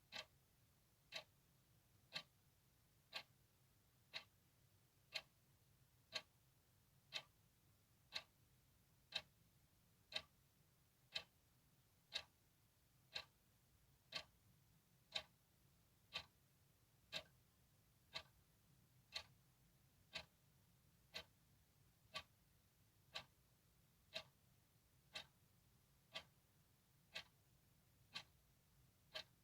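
Clock ticking steadily, one crisp tick a second, evenly spaced.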